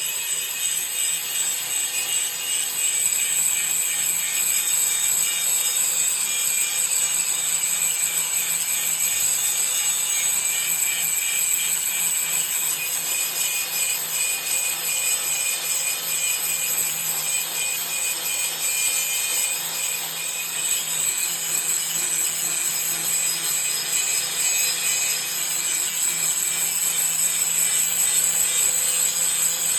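Angle grinder with a green abrasive grinding wheel grinding down thick arc-welding lumps on a steel sheet: a steady, high-pitched grinding.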